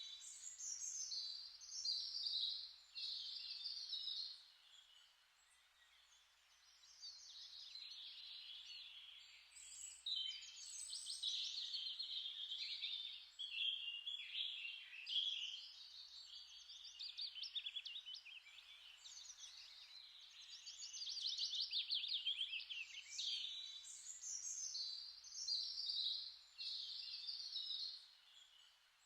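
Small songbirds singing: high, rapid twittering and trilling phrases, one after another, with a couple of short lulls.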